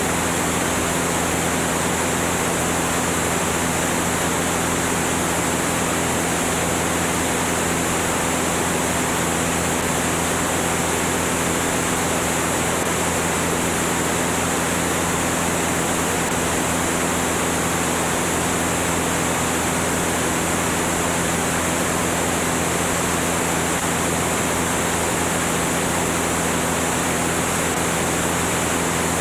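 Cessna 205 light aircraft in steady flight: an unchanging engine and propeller hum under a loud, even rush of wind noise.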